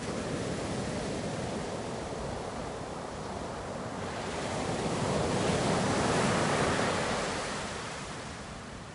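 Ocean surf: a steady wash of waves, with one wave building to a peak about six seconds in and then easing off.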